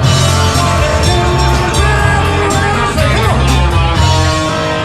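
Live rock band playing, with a steady bass line, drums and guitar.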